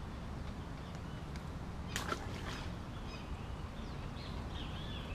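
Birds chirping with short, arching calls over a steady low rumble, with a brief sharp noise about two seconds in.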